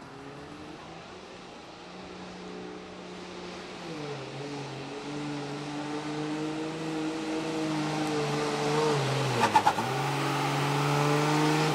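Turbo-diesel pulling truck's engine working hard under load at high revs, growing steadily louder. About nine and a half seconds in the revs dip sharply with a few crackles, then climb back.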